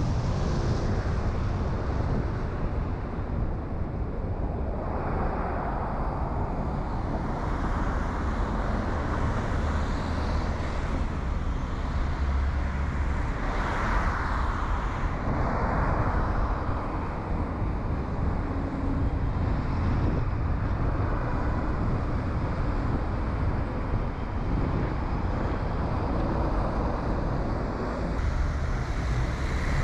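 A car driving on a town road: a steady low rumble of engine and tyres with road noise, swelling a few times.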